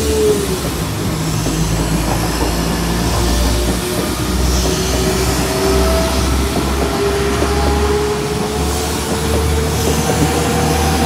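A West Midlands Railway diesel multiple unit passing over a level crossing: a steady low engine and wheel rumble runs underneath a long, high whine that slides slowly up and down in pitch as the carriages go by.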